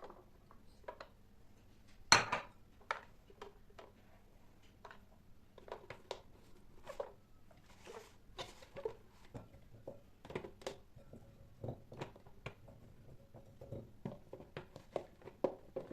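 Kitchen clatter: irregular clinks and knocks of dishes and utensils being handled, the sharpest knock about two seconds in.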